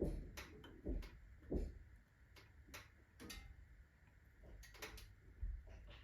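Wood fire in an iron fireplace stove: irregular sharp ticks and crackles with a few dull knocks, from the burning kindling and the stove's iron expanding as it heats up fast.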